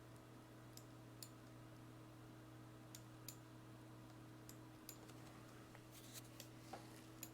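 Faint, scattered clicks of a computer mouse, a dozen or so single clicks and quick pairs, over a steady low electrical hum.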